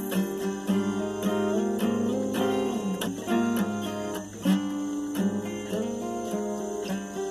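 Acoustic guitar music: a plucked and strummed passage of changing chords.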